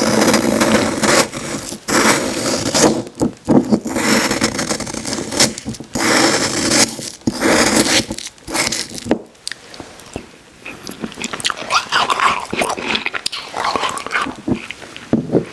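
Close-miked eating of Icee slush: crunching bites and chewing of the icy slushie in irregular bursts, louder in the first half and quieter and more broken later.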